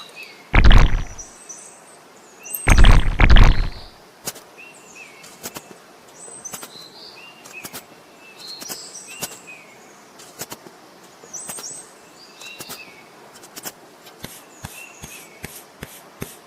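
Small birds chirping in short repeated calls throughout, broken twice early on by loud, heavy thuds. A quick run of sharp clicks comes in near the end.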